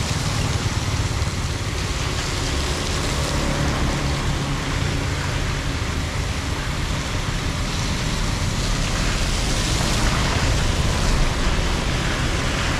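Steady rushing of floodwater pouring into a storm drain.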